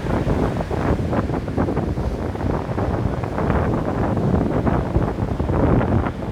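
Ocean surf on a beach: a steady, dense rush of waves.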